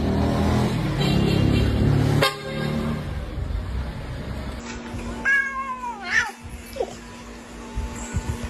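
A cat meowing: one drawn-out cry that falls in pitch about five seconds in, followed by a short second call. Before it, a louder low, dense sound from another clip fills the first two seconds.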